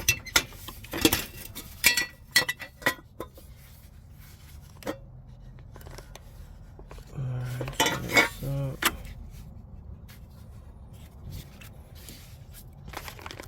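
Light metallic clinks and taps of metal parts and hand tools being handled, in a quick run over the first three seconds and a few more later on.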